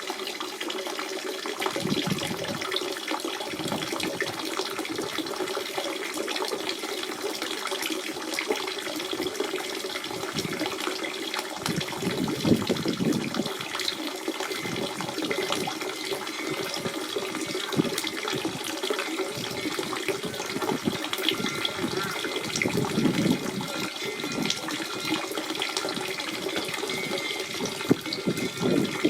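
Natural spring water running and splashing steadily, a continuous burble with a louder gurgle now and then.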